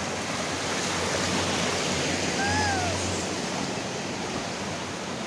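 Steady rush of rain and running water. About halfway through there is a brief low hum and a short rising-then-falling tone.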